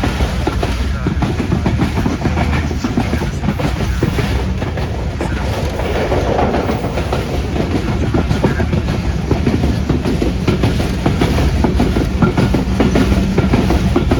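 Pakistan Express passenger train running on the rails, its wheels clattering over the track with a steady rumble.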